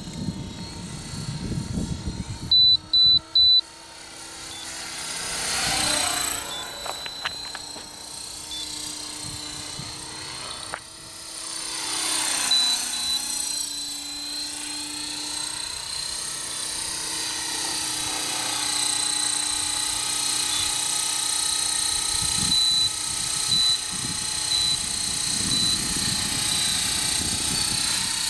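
Electric RC helicopter with a four-blade main rotor head flying, a steady high whine of motor and rotor that sweeps down and back up twice as it passes close by. Three short, loud electronic beeps about three seconds in.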